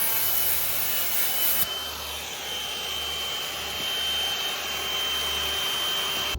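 Power tool cutting through porcelain stoneware tile: a steady grinding noise with a thin high whine.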